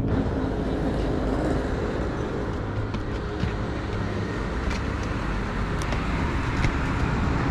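Steady road and engine noise of a car being driven, as heard from inside the cabin, with a few faint ticks.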